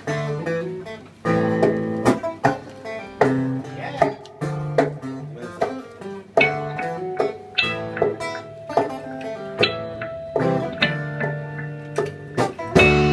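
Guitar playing a plucked passage, with a new note or chord struck about every half second and each ringing on.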